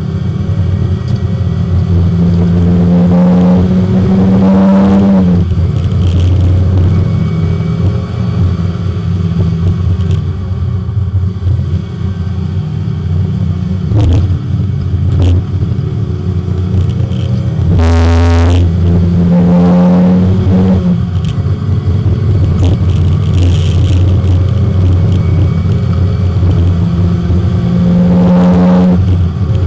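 Porsche 924 race car's four-cylinder engine under hard acceleration, heard from inside the car: the pitch rises through the revs several times, dropping at each gear change. A few sharp knocks come through around the middle.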